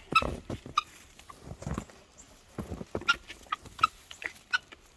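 Chickens in a coop giving scattered short clucks and chirps, with a few dull knocks.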